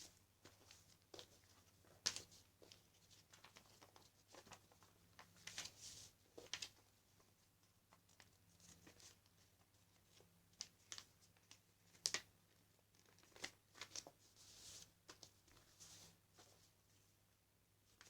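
A sheet of paper being folded and creased by hand for a paper airplane: irregular short rustles, crinkles and sharp creasing clicks, with the loudest about two seconds in and again about twelve seconds in.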